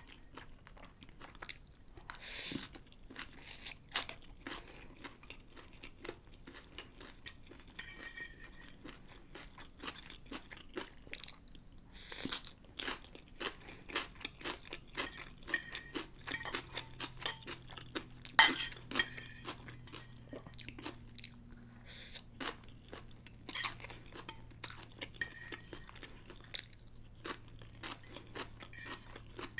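Close-miked chewing of pancit bihon rice noodles with pork: many small, irregular wet mouth clicks and crunches, with one sharper click a little over halfway through.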